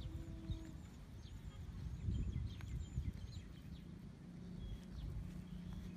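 Small birds chirping in the background, a scattered string of short high notes, over a low rumble on the microphone.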